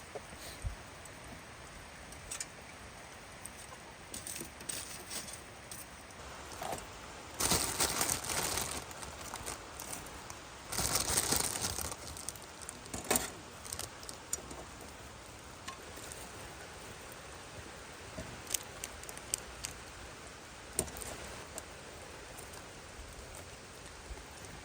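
Steady rain patter with scattered sharp clicks, and two louder spells of noise from handling something about seven and eleven seconds in.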